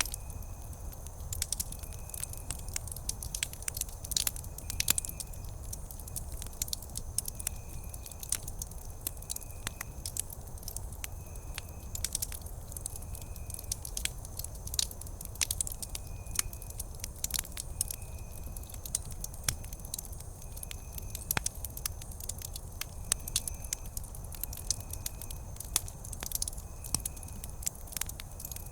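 Wood campfire burning, crackling with frequent sharp irregular pops over a low steady rumble. A short high chirp repeats about every second and a half behind it.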